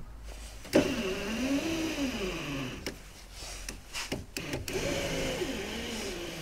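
A car's electric window motor runs the glass, its whine wavering up and down in pitch as it labours, with a few sharp clicks. The uneven running is the glass dragging: the owner suspects the rear window channel strip is holding it back.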